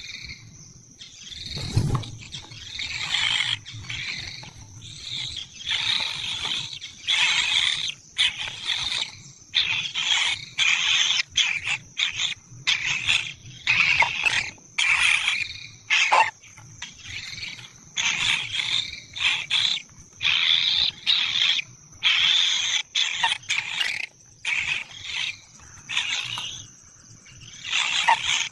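Kingfisher nestlings giving harsh, rasping begging calls over and over in irregular bursts, over a steady high insect drone. A single dull thump about two seconds in.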